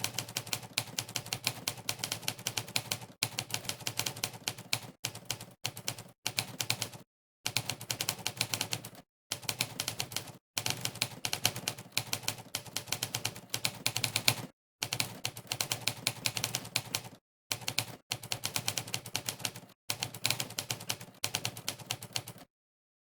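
Monkeytype's typewriter keypress sound effect, one typewriter key-strike per keystroke as someone types fast. Rapid clicks come in runs, broken by several short pauses of dead silence, and the clicks stop about half a second before the end.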